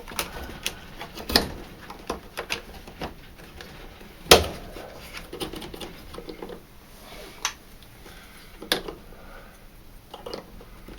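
Scattered clicks and knocks of pliers and small plastic and metal parts being handled while a tumble dryer pump is refitted. One sharp click about four seconds in is the loudest.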